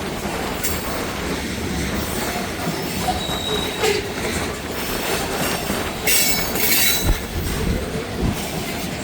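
Freight train cars rolling past at speed, a steady rumble of wheels on rail with high-pitched wheel squeals that flare up several times.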